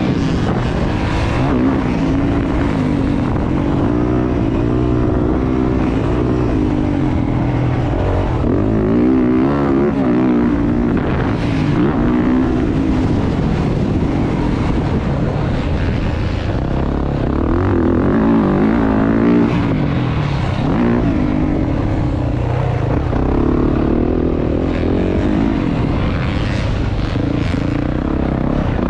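Dirt bike engines revving up and down as they ride the track, pitch rising and falling again and again with gear changes and throttle.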